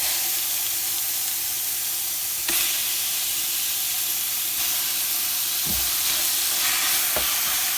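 Vegetables and herbs frying in olive oil in a pot, a steady sizzle that steps up louder about two and a half seconds in, as raw ground chicken goes into the hot pot. A couple of soft knocks near the end.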